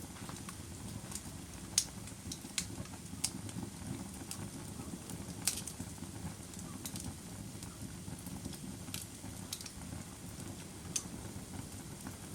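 Fire crackling: irregular sharp pops and snaps, several of them prominent, over a steady low rumble of the burning.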